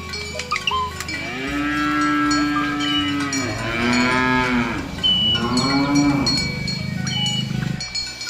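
Cow mooing: three drawn-out moos run together over about six seconds, their pitch bending down and up. Short, high, bell-like tones ring through it.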